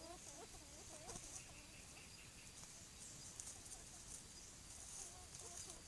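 Such's antthrush (tovaca-cantadora) singing faintly: a fast series of low, swooping notes that breaks off about a second in and starts again near the end, over a steady high insect hiss.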